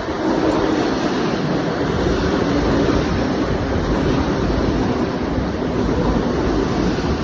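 ED4M electric multiple unit rolling into the station: a steady, loud rumble of wheels on rails, with wind buffeting the microphone.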